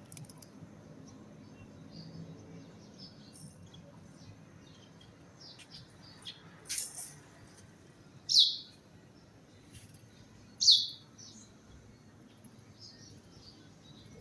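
Small birds chirping in short scattered notes, with a brief noisy rush about seven seconds in and two loud, sharp calls that sweep downward in pitch, a little over two seconds apart, near the end.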